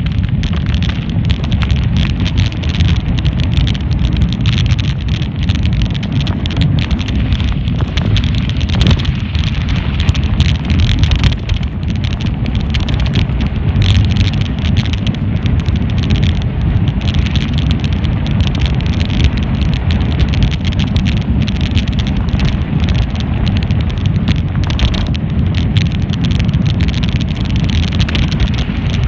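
Mountain bike ride heard from a camera on the bike or rider: loud wind buffeting the microphone, with a constant clatter of small knocks and rattles as the bike goes over bumps.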